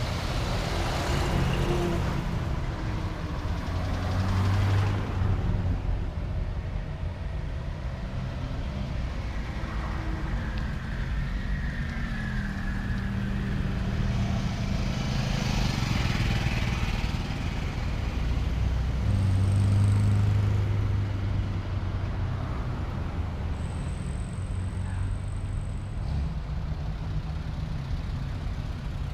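Car engines running at low speed as classic cars drive by, a steady low engine sound that grows louder about twenty seconds in.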